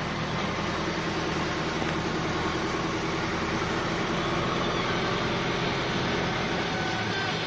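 Heavy diesel engine of construction machinery running steadily at an even pace.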